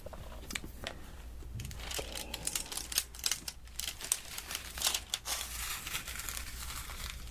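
Diamond painting pen tip pressed and twisted into the sticky wax to load it: a run of crackling sticky noises with scattered sharp clicks.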